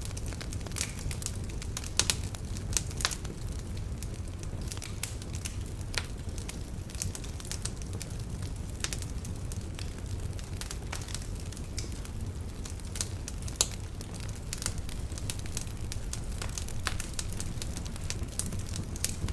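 Wood fire crackling in a fireplace: logs burning with a steady low rumble and frequent sharp snaps, a few of them louder pops.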